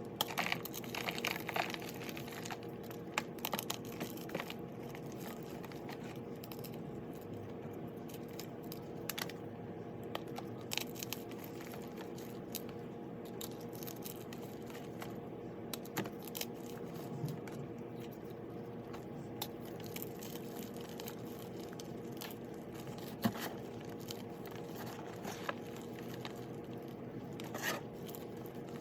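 Sped-up crushing of a crunchy block topped with dried yellow cornstarch paste, with a run of irregular sharp crackles and crumbling crunches.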